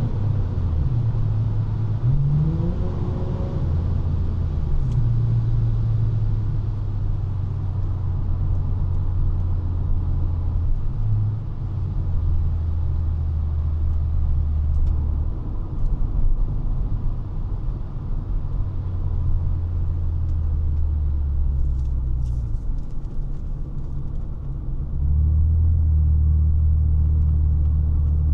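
A 1999 Honda Legend's 3.5-litre V6 engine and exhaust under way, a steady low drone with a brief rise in revs about two seconds in. The drone steps up louder near the end.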